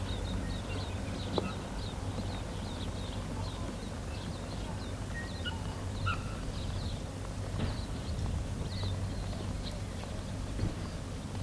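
Birds chirping: many short, high calls repeating, over a low steady hum.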